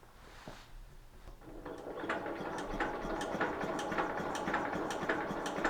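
Starter cranking the tractor's Briggs & Stratton engine with the oil fill cap removed, a fast, even mechanical chatter that starts about a second and a half in. It turns over much quicker with the cap out, a sign that the crankcase vent running from the head to the air filter may be clogged.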